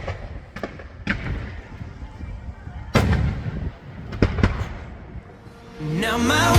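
Fireworks going off outdoors: a string of sharp bangs, the loudest a booming burst about three seconds in that rumbles on. Music fades in near the end.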